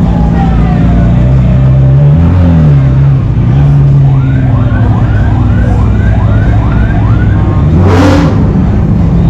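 Vehicle siren over the low rumble of running engines: a slow falling wail at first, then a quick run of short rising whoops. Near the end comes one short, loud burst of noise.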